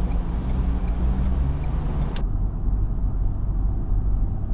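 Car on the road, a steady low rumble of engine and tyres, with one sharp click about two seconds in.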